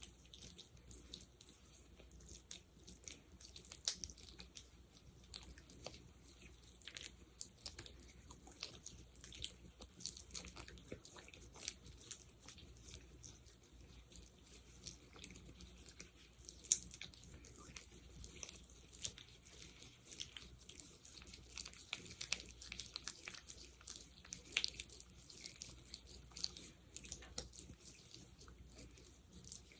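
Close-miked sticky sounds: fingers pressing into and pulling apart a thick gel, giving a dense, irregular run of small wet clicks and crackles.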